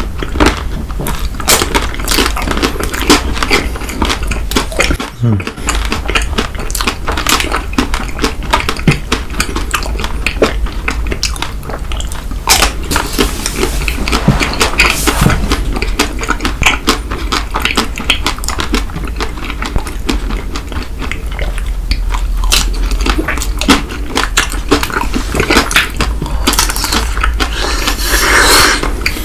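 Close-miked chewing and biting of Snickers chocolate bars, many small crunches and mouth clicks in quick succession. A longer, louder swishing noise comes near the end.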